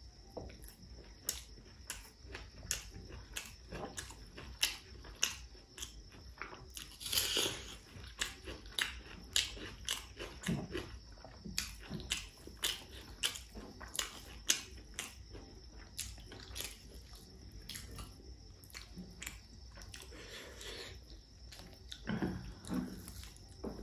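Close-up mouth sounds of someone chewing pork curry and rice: wet smacks and clicks, irregular, about one or two a second.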